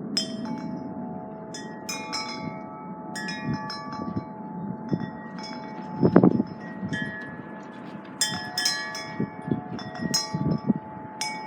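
Wind chimes struck irregularly by the wind, each strike ringing on at its own pitch, over low wind gusts on the microphone, the strongest gust about six seconds in.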